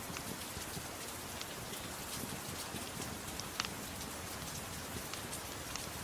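Steady soft rain falling, with scattered sharp pops and crackles from a fireplace fire, one louder pop about three and a half seconds in.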